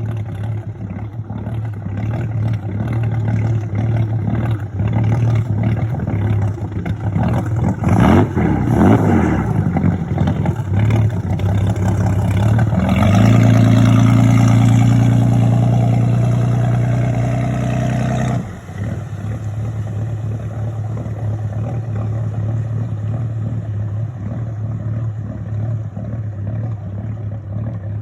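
KLC inboard boat engine running at low speed, its exhaust burbling unevenly as the engine blows water out of a low spot in the exhaust pipe, which sounds like a misfire although the engine runs smoothly. A louder, steady drone sits on top for about five seconds in the middle, then cuts off suddenly.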